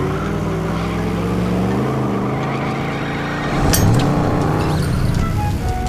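Cartoon truck engines revving and straining against each other, with a sharp metallic clank about two-thirds of the way in.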